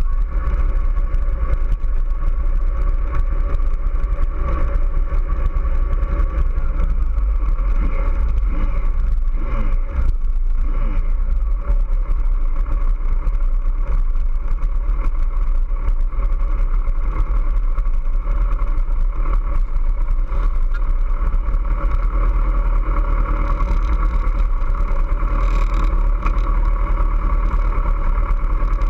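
Kawasaki ZX-14R's 1441 cc inline-four engine running as the bike rides at low speed, heard from a camera mounted on the bike, with a steady low wind and mount rumble underneath. The engine pitch dips and rises briefly about ten seconds in.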